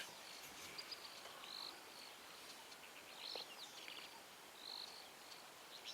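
Faint bush ambience: short high chirps repeating roughly once a second over a soft steady hiss.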